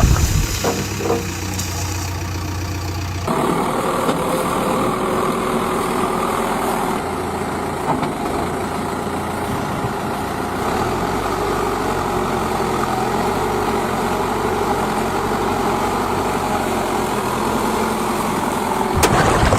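A heavy vehicle's diesel engine running steadily, its sound shifting abruptly about three seconds in, with a louder burst near the end.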